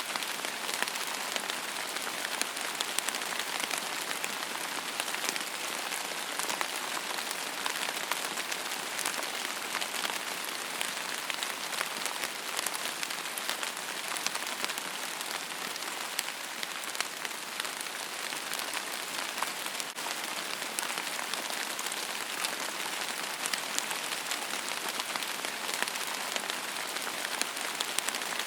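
Steady rain falling on a surface: a constant hiss dotted with many small drop ticks.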